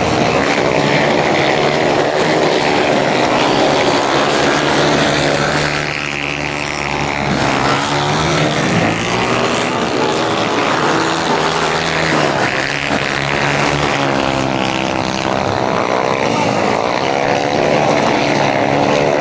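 Speedway solo bikes, 500cc single-cylinder methanol-fuelled engines, racing round the track. Their loud engine notes rise and fall in pitch again and again as the riders open and close the throttle.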